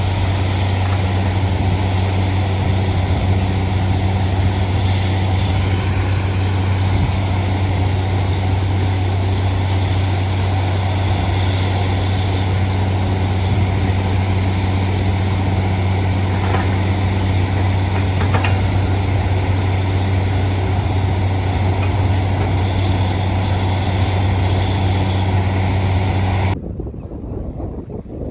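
Borewell drilling rig's engine running steadily with a deep, loud hum, cutting off abruptly near the end.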